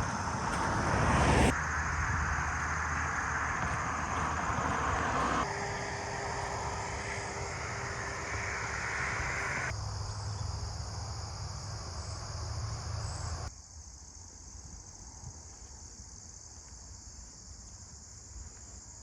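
Steady high chirring of crickets and other insects, with a rushing of road traffic under it that changes abruptly several times and falls away about two-thirds of the way through, leaving the insects alone.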